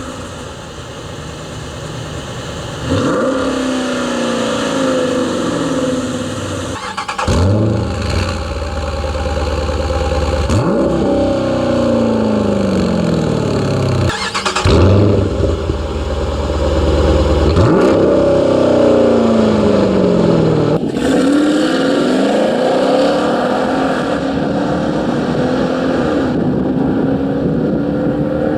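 2011–2020 Dodge Durango's 5.7-liter Hemi V8 running through a Stainless Works 3-inch stainless steel catback exhaust with X-pipe, revved several times. Each time the pitch jumps up sharply and falls back, and near the end it climbs slowly.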